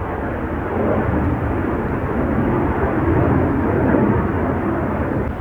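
Jet aircraft engines running on a departure from the runway, a steady rushing noise that swells from about a second in and eases slightly near the end.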